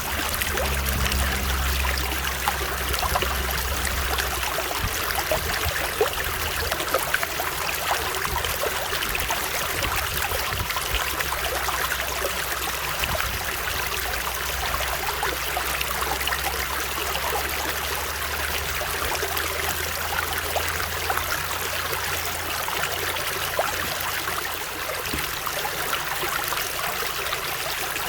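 Stream water running steadily over rocks: an even rushing hiss with fine splashes and trickles. A low rumble underneath fades out about twenty seconds in.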